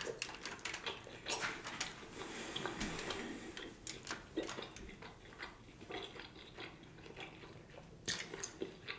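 Close-miked mouth sounds of a man biting into and chewing a bone-in ribeye steak held in his hands, with irregular short clicks and smacks.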